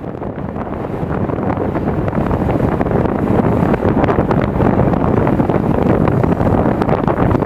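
Passenger train running, heard from an open coach window: a steady rumble of wheels on the rails mixed with wind buffeting the microphone, growing louder over the first few seconds.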